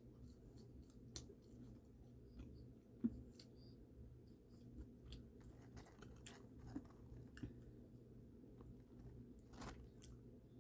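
Faint close-up chewing of fried fast food, with scattered small crunches and wet mouth clicks and one sharper crunch about three seconds in.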